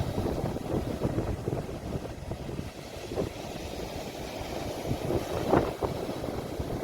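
Sea waves washing onto the shore, recorded on a phone, heard as a low, uneven rumble with wind buffeting the microphone.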